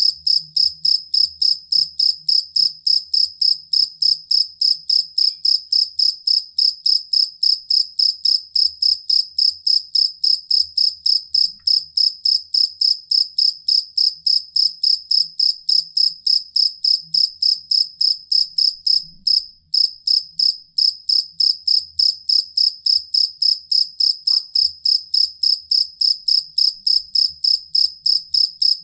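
Field cricket (jangkrik kalung) chirping steadily: a high, ringing chirp repeated about three times a second, with one brief break a little past two-thirds of the way through.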